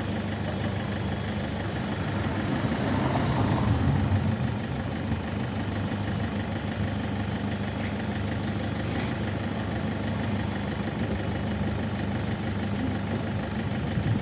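Car engine idling steadily, swelling briefly about three seconds in.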